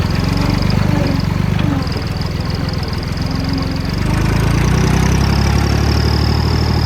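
Tractor engine running as it sets off pulling a sprayer, getting louder about four seconds in, with a steady high whine over it.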